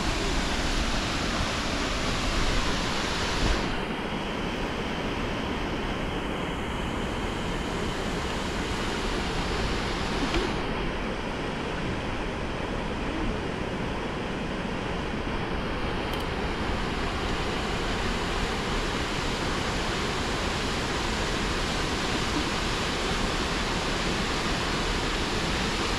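Steady rushing of falling water, a continuous even roar; the hiss at the top thins out twice and comes back.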